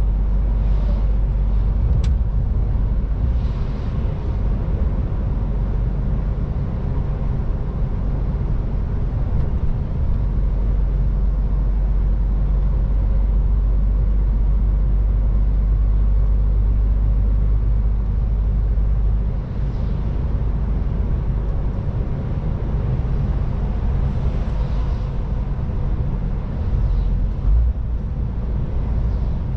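MAN TGX 18.510 truck's 12.4-litre straight-six diesel running steadily on the road, with its low engine drone and rumble of tyres and road.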